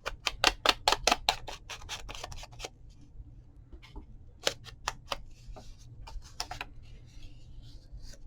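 Scissors snipping paper in a quick run of about a dozen cuts, roughly five a second, then a few separate clicks.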